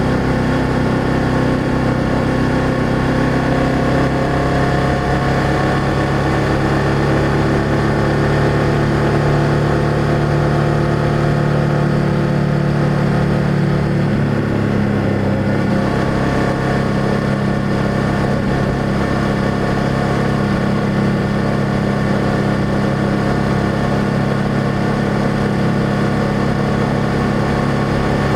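BMW F800GS parallel-twin engine running steadily under way, heard through its exhaust; the engine note shifts in pitch about halfway through and then holds steady again.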